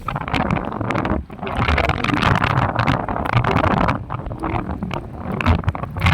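Wind buffeting the microphone in uneven gusts, a rushing noise with low thumps and crackles.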